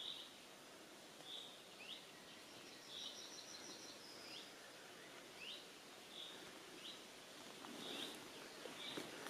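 Small songbirds calling in a quiet forest: short high chirps repeating about once a second, with a brief higher trill a few seconds in.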